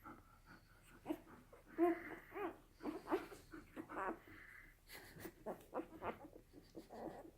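Newborn puppies squeaking and whimpering while they nurse: several short, high, wavering squeaks mixed with quick clicks.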